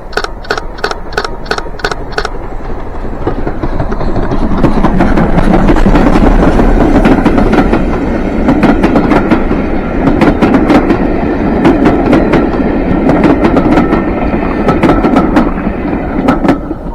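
A train passing on the railway, growing louder about four seconds in and staying loud, with a run of sharp, evenly spaced clicks at the start and more clicks later. The sound cuts off suddenly at the end.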